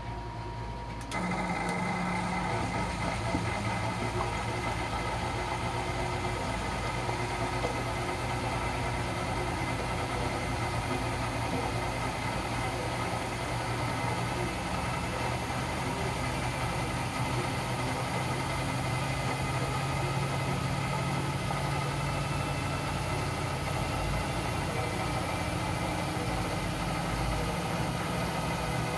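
Miele W 759 washing machine running: a steady mechanical hum with a whine in it, coming on suddenly about a second in.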